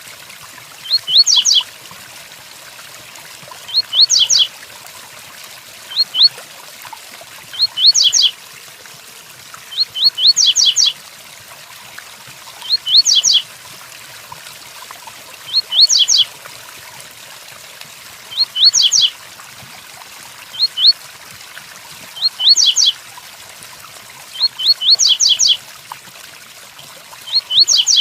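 Double-collared seedeater (coleiro) singing short 'tui-tuí' phrases of a few quick rising high notes, repeated about every two to three seconds. A steady rain sound runs underneath.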